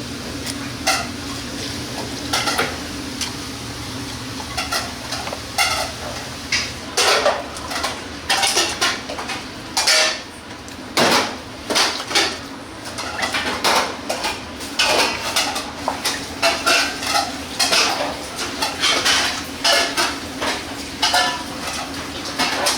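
Metal pans, trays and utensils clanking and scraping irregularly, several knocks a second at times, over a steady low hum.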